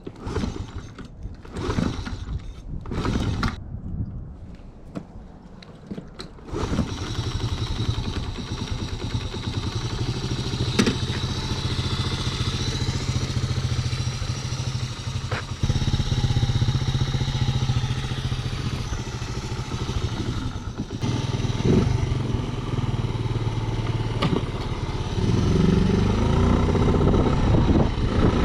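Small motorcycle engine, a Honda Z50R's 49 cc single-cylinder four-stroke: a few irregular clattering strokes, then at about six and a half seconds it catches and keeps running steadily, with small rises in speed.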